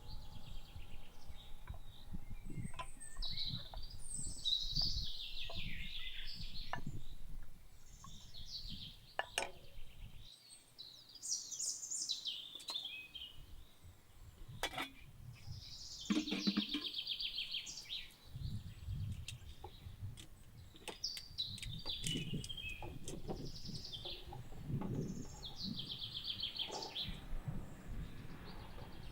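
Wild birds singing and chirping in short repeated phrases, with a few sharp clicks and low knocks in between.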